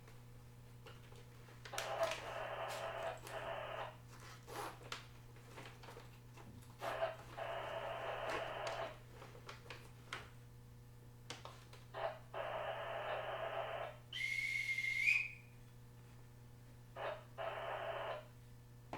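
Departure whistle blown once, a clear tone of about a second that lifts in pitch at its end, about three-quarters of the way through. Under it, a JR East E127 series EMU stands at a station platform with a steady low hum, broken by short bursts of hiss every few seconds.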